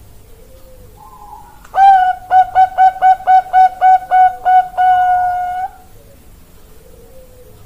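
Zebra dove (perkutut Bangkok) singing one loud song: an opening note, a quick run of about ten repeated cooing notes, and a long held final note. Fainter dove coos come before and after it.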